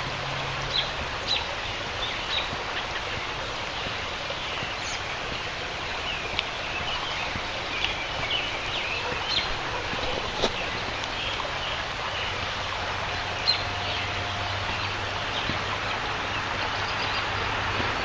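Birds chirping in short scattered calls over a steady outdoor hiss at a creek, with a sharp click about ten seconds in.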